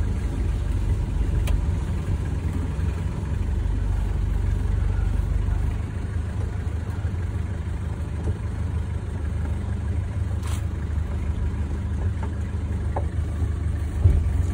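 Hindustan Ambassador car's engine running with a steady low drone. A short thump comes near the end.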